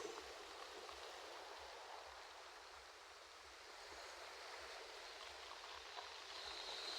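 Faint, steady wash of ocean waves on a shore, swelling near the end as a bigger wave comes in.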